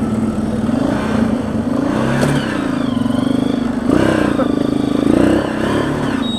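Motorcycle engine running and being revved, its pitch rising and falling several times. This is a test run after water was drained from the fuel tank and carburettor.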